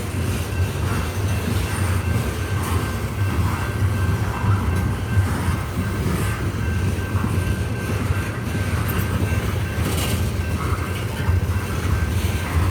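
Loaded coal hopper cars of a freight train rolling slowly past, a steady deep rumble of wheels on rail with a faint steady high squeal and scattered clanks. There is a sharper clank about ten seconds in.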